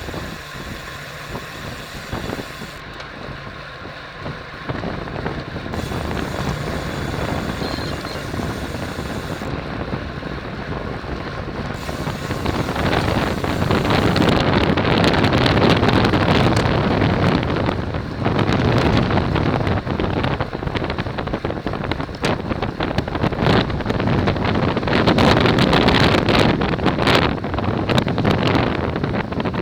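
Wind rushing over the microphone of a racing bicycle at speed, with tyre and road noise beneath; the wind gets louder and gustier about halfway through.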